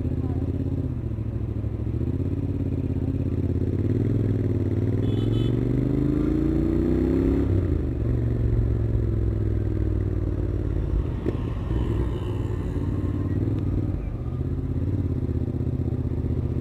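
Stock exhaust of a Royal Enfield Continental GT 650's parallel-twin engine running. Its pitch climbs steadily for about three seconds as the revs rise, then drops suddenly and settles back to a steady note.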